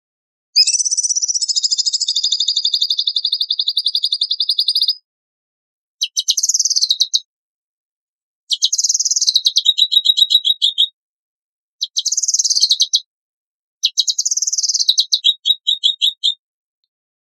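A songbird singing harsh, rapid trilled phrases: a long buzzy trill lasting about four seconds, then four shorter phrases that end in fast ticking trills, with silence between them.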